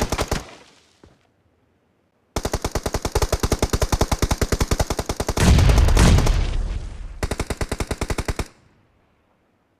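Video-game automatic gunfire: a short burst at the start, then after a pause a long run of rapid, evenly spaced shots lasting about six seconds. About halfway through, a louder, deeper boom sounds over the firing, and the firing then stops.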